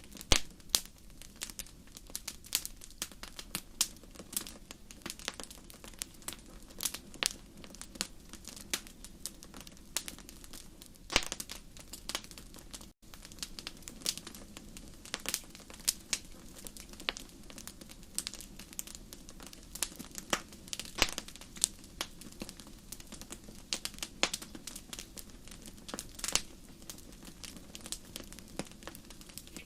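Wood fire crackling in a fireplace: irregular sharp snaps, several a second, over a low steady rumble.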